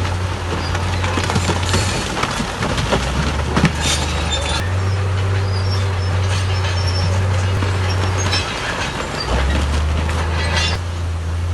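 Crawler bulldozer working: its diesel engine runs steadily under load, the note dropping and coming back up a few times, while the steel tracks clank and squeal.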